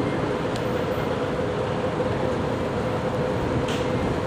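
Steady mechanical drone of the stationary circus train, with a constant hum running under it.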